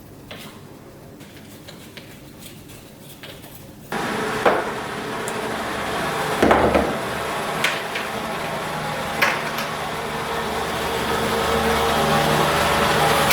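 Faint clicks and handling, then about four seconds in a steady, loud mechanical running noise starts suddenly, with a few sharp knocks over it.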